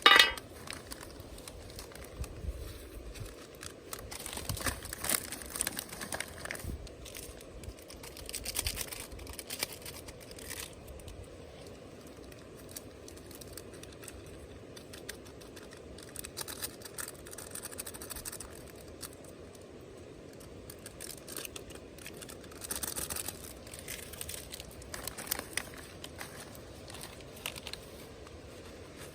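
Intermittent rustling and crinkling, like material being handled, with scattered light clicks and knocks and a short loud sound right at the start.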